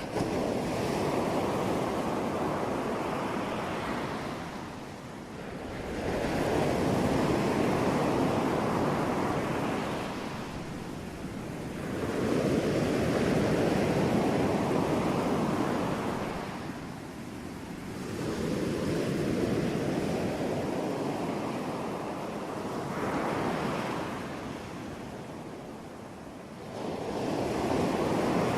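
Ocean surf: waves breaking and washing up, the rushing sound swelling and fading in long surges every five to six seconds.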